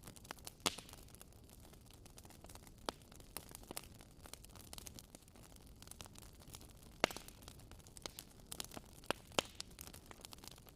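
Wood fire crackling in a fireplace: a low steady hiss with irregular sharp pops and snaps. The loudest pops come about a second in and again about seven seconds in.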